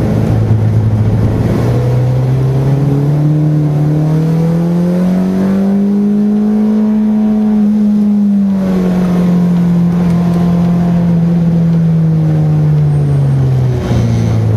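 Car engine heard from inside the cabin, its revs climbing steadily for about five seconds, holding briefly, then easing off slowly, with a sudden drop in pitch near the end.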